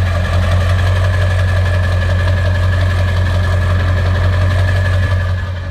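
Ford 7.3 Powerstroke V8 turbo-diesel idling steadily with a low, even rumble, its exhaust now running through a freshly fitted, bigger exhaust tip.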